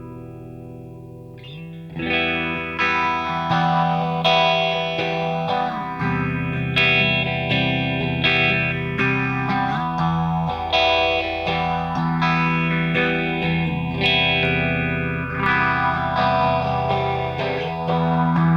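Electric guitar chords played through a Madbean Nom Nom, a Phase 90-style phaser pedal, its slow phase sweep rising and falling every few seconds. A ringing chord dies away before the playing starts again about a second and a half in, with fresh chords struck about every two seconds.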